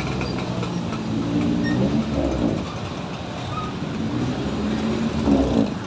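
Road vehicle engines running and pulling away, their pitch rising about a second in and again near the end.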